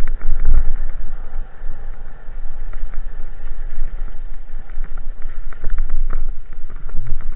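Wind buffeting the microphone with a heavy low rumble as a bicycle is ridden through snow, with frequent small clicks and rattles from the bike.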